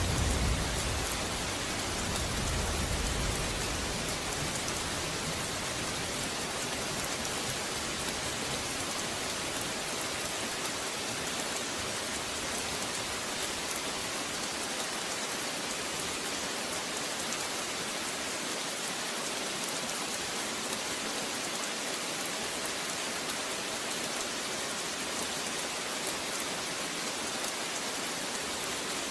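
Steady rain pattering down, a dense even hiss with fine drop impacts. The low rumble of a thunderclap dies away over the first few seconds.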